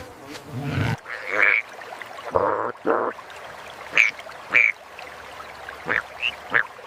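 Ducks quacking: about ten short separate calls, two lower longer ones followed by shorter, sharper ones in quick pairs.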